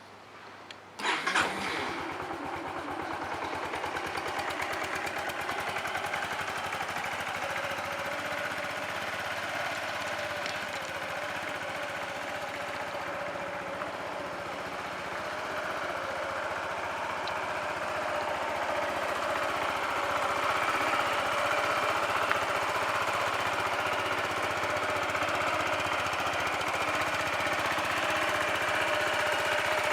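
Yamaha Majesty S 155 cc single-cylinder four-stroke scooter engine starting on its electric starter and catching about a second in, then idling steadily. The idle grows a little louder in the second half.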